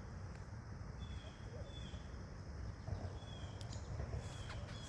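A bird calling over and over: short high notes, each dropping a little in pitch, about one every second, over a steady low rumble.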